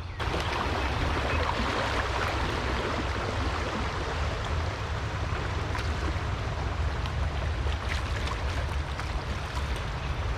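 Rushing, riffling river water running steadily around a kayak in a rocky mountain-stream rapid.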